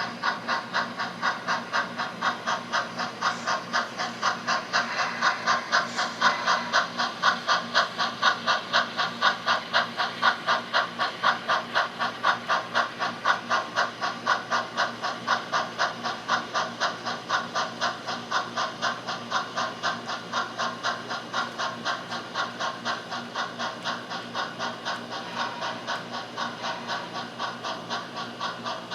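HO scale model steam locomotive's sound decoder playing steady steam-exhaust chuffing, about three chuffs a second. The chuffing grows louder over the first several seconds and then slowly fades as the engine runs by.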